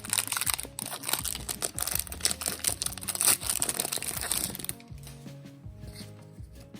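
Foil booster-pack wrapper crinkling and tearing open, a dense crackle that stops about two-thirds of the way through, over background music.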